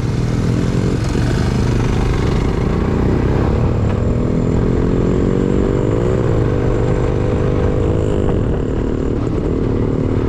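Motorcycle engine running on the move. Its note climbs about six seconds in and settles back about two seconds later.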